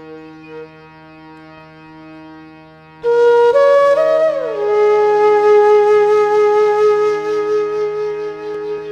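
Background flute music over a steady drone: soft held tones at first, then the flute comes in loudly about three seconds in, climbs a few notes, slides down and holds one long note.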